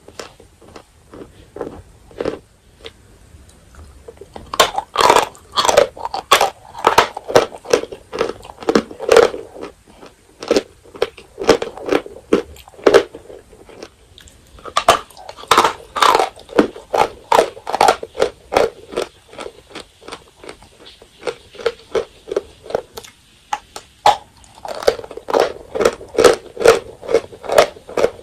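Close-miked biting and chewing of edible chalk: dry, sharp crunches in quick runs of several a second, with a lull of softer chewing in the middle.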